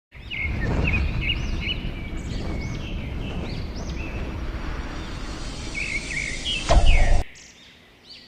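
Many small birds chirping in quick, repeated high calls over a loud low rumbling noise. Just before seven seconds there is a louder burst, then the rumble cuts off abruptly and the chirping carries on more quietly.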